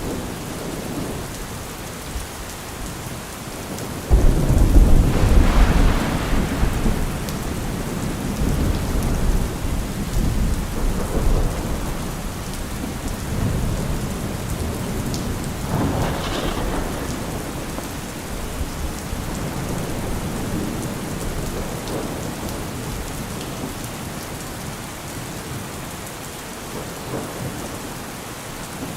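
Steady rain falling, with a loud rumble of thunder breaking in about four seconds in and rolling on for several seconds, and a shorter swell of sound about halfway through.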